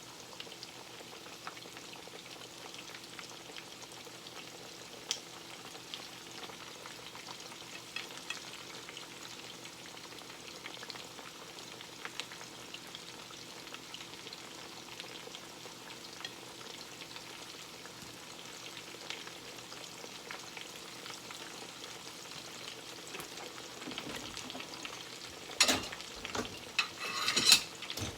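Breaded chicken breast frying in a pan, a steady sizzle with small crackles. Near the end a few louder sharp clatters come in.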